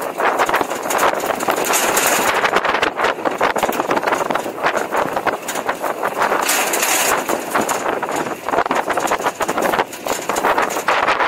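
Open-air 4x4 tour truck driving off-road: a steady engine and road noise, broken by constant knocks and rattles as the truck jolts over rough ground.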